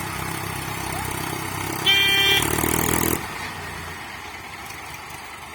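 Tractor engines running under load while pulling a sugarcane trailer stuck in mud. About two seconds in, a vehicle horn honks briefly, followed by a loud rush of noise for under a second, after which the engines run quieter.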